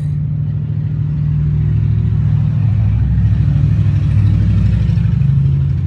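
A motor vehicle's engine running close by with a low, steady hum, growing louder through the middle and easing off near the end.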